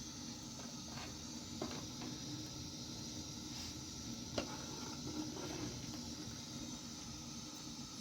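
A steady hiss with a few faint sharp clicks scattered through it.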